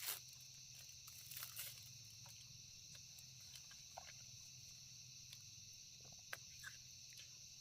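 Faint, steady high-pitched chirring of insects, with scattered soft clicks and rustles, a few of them a little louder at the start, about a second and a half in and near the end.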